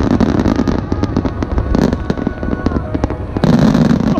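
Aerial fireworks bursting in rapid succession with dense crackling, becoming a heavier, louder barrage about three and a half seconds in.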